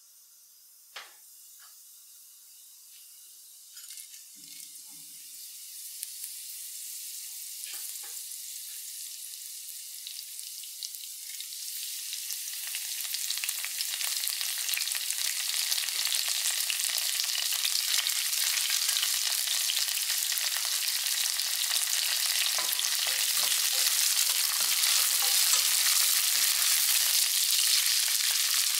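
Cumin seeds, dried red chillies and curry leaves frying in hot coconut oil in a stainless steel pan. The sizzle starts faint, grows steadily louder over the first half, then holds as a steady crackling sizzle. A few light clicks come in the first several seconds, and soft knocks of stirring come near the end.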